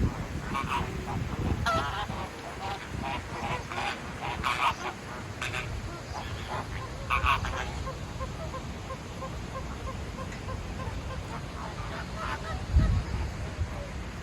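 Birds calling repeatedly with harsh, honking calls, and a run of short, evenly spaced notes in the middle.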